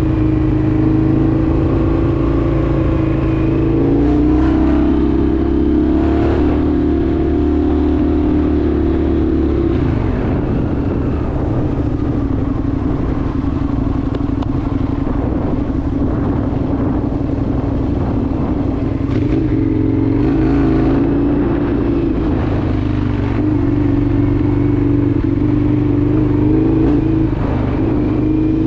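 Indian FTR 1200's V-twin engine running under way at steady revs, easing off about ten seconds in and pulling again from about twenty seconds, with scattered brief knocks.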